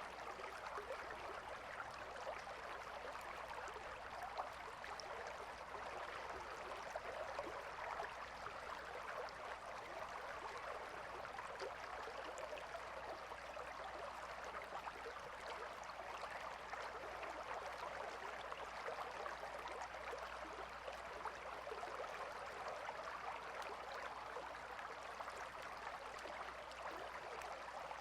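Calm river flowing, a steady rush of water with a fine babbling crackle that does not change.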